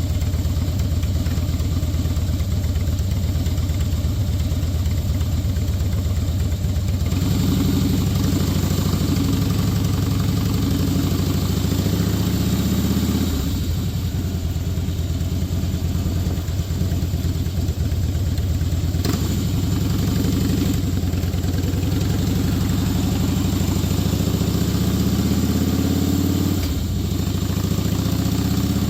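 Motorcycle engine running steadily under way, with a low, pulsing firing note. Its pitch climbs twice, about a quarter of the way in and again near the end, as the bike accelerates.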